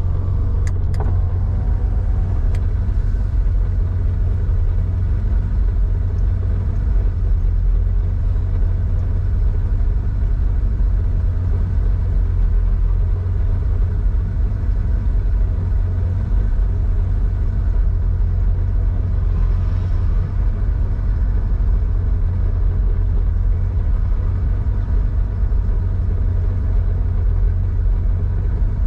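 1987 Porsche 911 3.4-litre air-cooled flat-six running at a steady engine speed, a low exhaust rumble through a Scart two-in-one-out muffler. A few sharp clicks come near the start.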